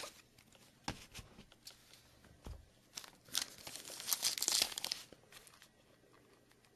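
A few light clicks and taps of cards being handled, then a trading card pack's wrapper crinkling and tearing open for about two seconds.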